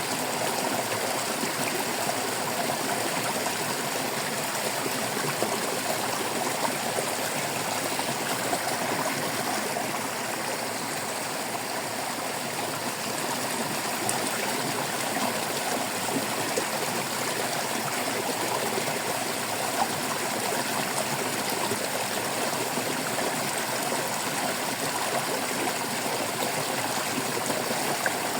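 Stream water babbling and trickling, a steady, unbroken rush.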